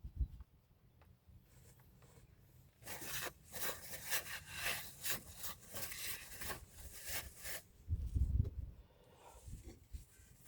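A run of short, irregular rubbing and scraping strokes from hand work on the brake parts, starting a few seconds in, followed by a dull thud.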